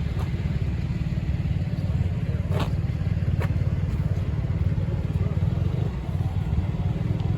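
Motorcycle engine running steadily, a low pulsing rumble, with two light ticks near the middle.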